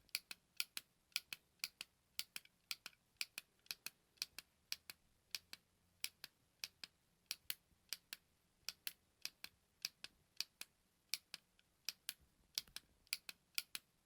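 Button clicks, sharp and dry, repeating unevenly about three times a second, many in quick pairs like a press and release.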